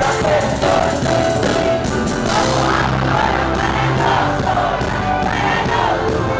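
Live cumbia band playing an instrumental passage between sung lines, with a steady beat throughout.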